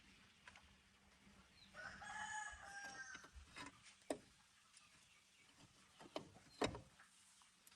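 A rooster crows once, about two seconds in, in a single call of roughly a second and a half. It is followed by a few short, sharp knocks.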